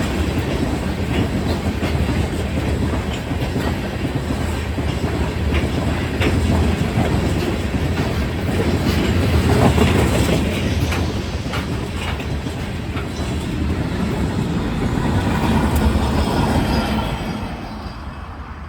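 Loaded grain train passing, with the rear DPU locomotives, a GE Dash 9 and a GEVO: a steady heavy rumble with wheels clacking over rail joints. It is loudest about halfway through, then fades away near the end.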